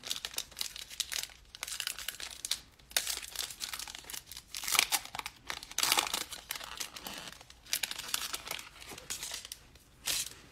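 A foil trading-card pack wrapper being torn open and handled, with irregular crinkling and tearing rustles.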